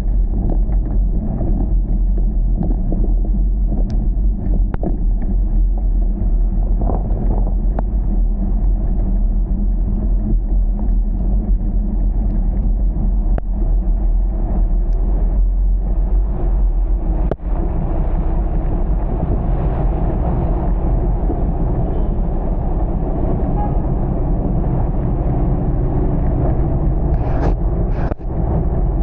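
Steady low rumble of a car driving on rain-soaked roads, with a couple of short squeaks near the end.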